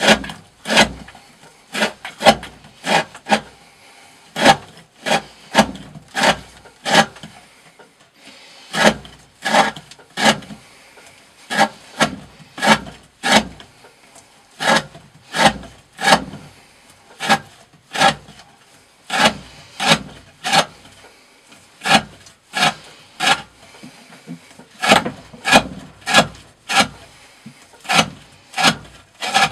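A D2-steel knife blade slicing through thick 20 mm rope again and again: a short, sharp cut about every second, sometimes two in quick succession.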